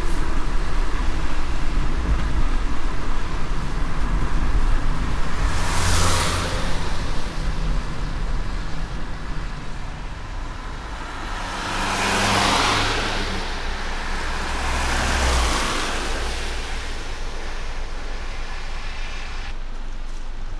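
Steady low rumble and hiss of a car driving on a wet road in light rain. Three swishing passes of other vehicles come about six, twelve and fifteen seconds in.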